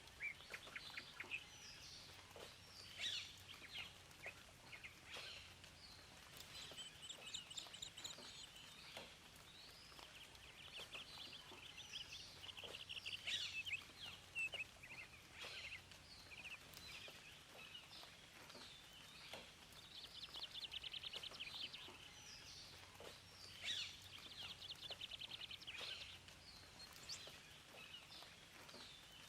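Several songbirds singing and calling, with short chirps and quick trills of rapidly repeated notes, over a faint steady background hiss.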